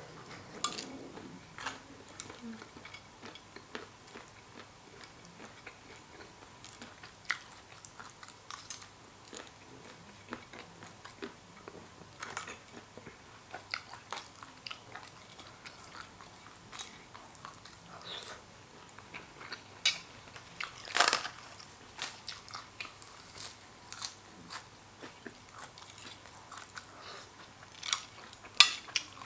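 Close-miked chewing and biting of a spicy horseshoe crab egg salad: irregular wet clicks and crunches, with the loudest bites about two-thirds of the way through and again near the end.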